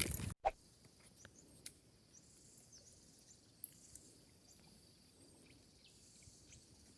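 A brief knock about half a second in, then faint steady high-pitched insect buzzing with a few scattered soft ticks.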